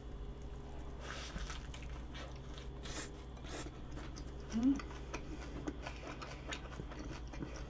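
A person chewing a mouthful of salad flatbread close to the microphone: faint wet mouth clicks and soft crunches, with a short "mm" hum about halfway through.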